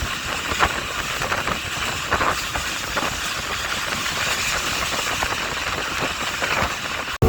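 Passenger train running along the track: a steady rushing rumble of wheels and air, with irregular clicks of the wheels over rail joints. The sound cuts out abruptly just before the end.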